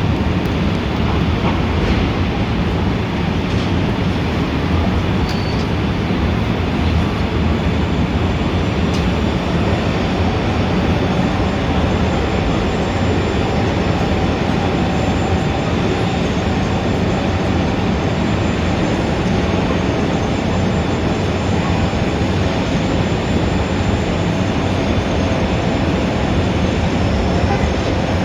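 Dense city street traffic: a continuous low rumble with faint steady higher tones over it, unbroken throughout.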